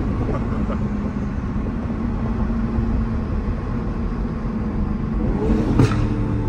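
Turbocharged 2022 Toyota Supra running steadily at low speed, heard inside the cabin as a low engine drone with road rumble. Near the end the engine note briefly rises and there is one short sharp crack.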